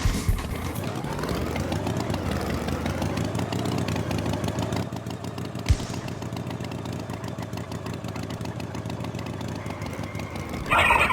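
Tractor engine sound effect running steadily, its pitch gently rising and falling, with a sharp click about halfway through and a short loud higher-pitched sound near the end.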